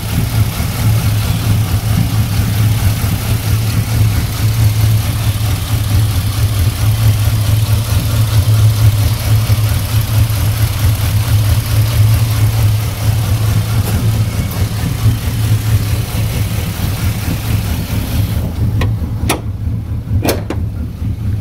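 Ford Mustang 4.0 V6 idling through a true dual exhaust with long tube headers and Cherry Bomb glass packs, a steady deep exhaust note with uneven loudness. Near the end the background hiss drops away and a couple of sharp clicks are heard.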